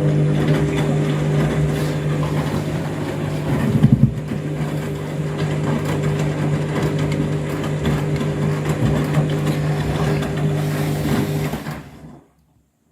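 Washing machine motor turning the drum during a rinse: a steady motor hum with water and laundry sloshing inside, a heavier thud about four seconds in, then the drum stops suddenly near the end as it pauses between turns.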